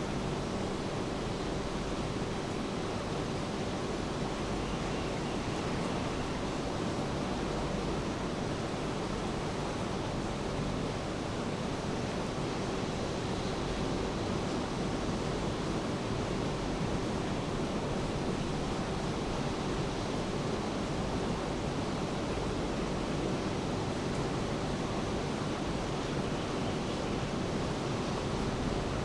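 Steady rain with ocean surf, an even, unchanging wash of noise, with a faint steady hum underneath.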